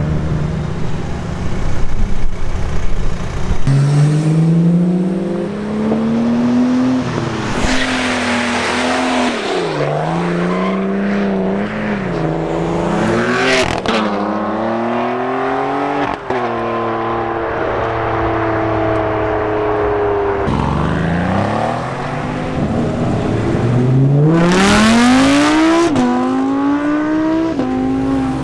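Modified cars accelerating hard away one after another, the engine pitch climbing under throttle and dropping back at gear changes several times. The exhaust noise grows loud in short bursts at full throttle.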